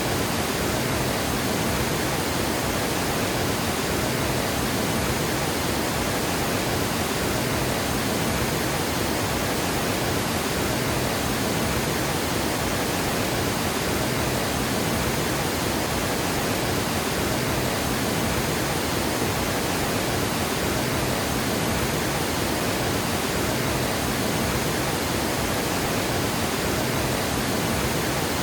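Water pouring over a dam spillway: a steady, unbroken rush of falling water.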